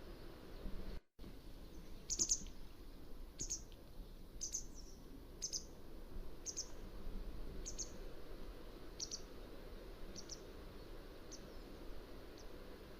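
Mountain wagtail giving a series of short, high calls, about one a second, growing fainter toward the end, over a steady background hiss. The audio drops out completely for a split second about a second in.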